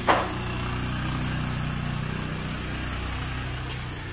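A motor running steadily, a low even hum with no change in speed.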